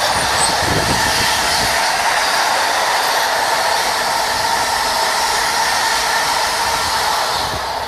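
A train passing at speed close by: a steady loud rush of wheels and wagons with a rumble underneath, which falls away quickly near the end as the train clears.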